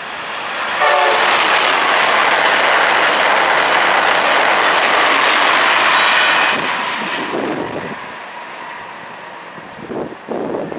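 Amtrak Acela Express trainset passing through the station at high speed: a loud rush of wheels and air that swells about a second in and drops away suddenly after about six seconds, with a short horn note at its onset.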